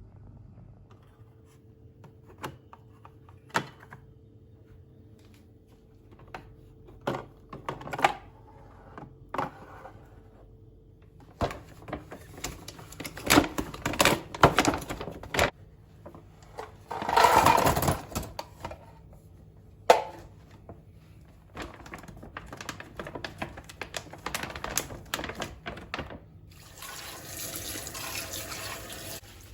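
Water running from a tap in short spells, the loudest about two-thirds of the way through and a steadier run near the end, with scattered sharp clicks and knocks of items being handled, mostly in the first third.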